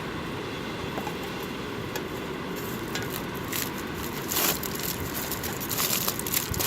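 Campfire burning: wood crackling with occasional sharper pops, the loudest a few seconds in, over a steady low rush.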